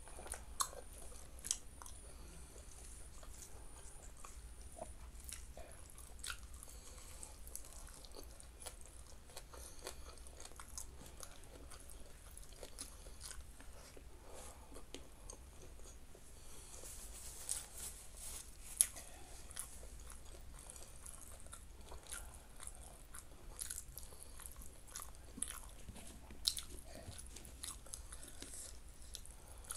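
Close-miked chewing of rice and fried salted fish eaten by hand, with scattered sharp crunchy clicks; the loudest comes about two-thirds of the way through.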